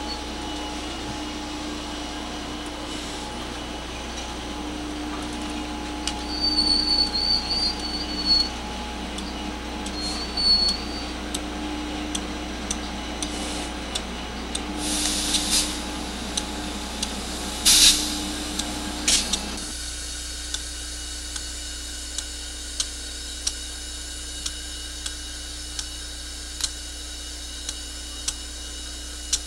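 Electric freight locomotive and coal train rolling past: a steady hum that comes and goes over a noisy rumble, with a few sharp clanks. About twenty seconds in the sound cuts abruptly to a quieter hiss with a light tick about once a second.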